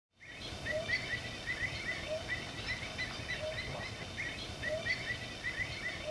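Wild birds chirping outdoors: quick short chirps several times a second, with a lower short call repeating about every second and a bit, over faint steady high tones and low background noise. The sound starts abruptly right at the beginning.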